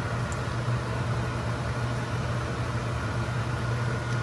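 Egg-dipped bread slices frying in hot oil in a pan, a steady sizzle over a constant low hum.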